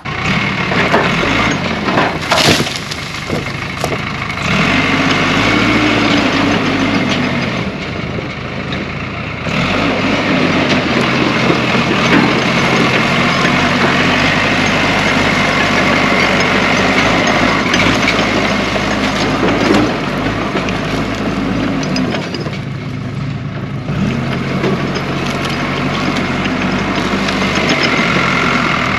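Case 550G bulldozer's diesel engine running at work, its pitch rising and falling as it takes and sheds load. A sharp crack about two and a half seconds in.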